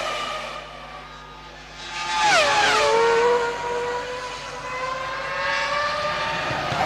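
Formula One cars' 3-litre V10 engines at high revs. About two seconds in, a car screams past with its pitch dropping sharply. Then a single engine note holds and climbs slowly as it accelerates, and another car sweeps past right at the end.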